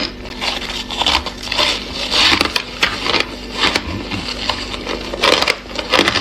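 Crunchy ice being bitten and chewed close to the microphone: a steady run of crisp cracks and crunches, several a second.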